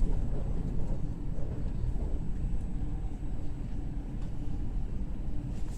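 Commuter train running, a steady low rumble with a faint constant hum, heard from inside the carriage.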